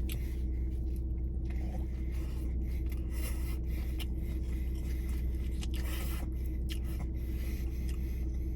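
Food and paper packaging being handled while eating, with short scraping and crackling sounds, over a steady low hum.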